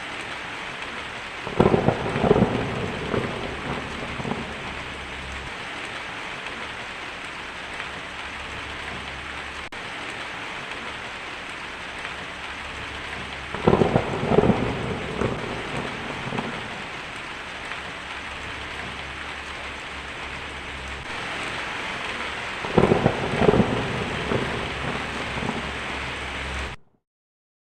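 Steady heavy rain falling, with three rolls of thunder rumbling and crackling over it, about ten seconds apart. The sound cuts off suddenly near the end.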